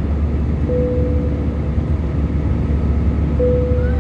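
Steady low rumble of a jet airliner's engines and airflow heard inside the passenger cabin after takeoff, with a thin steady tone coming in briefly twice.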